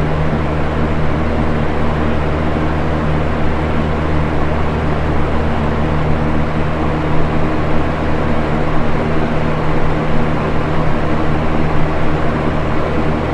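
Box fan running steadily: an even rush of moving air over a low, constant motor hum, with no change in speed.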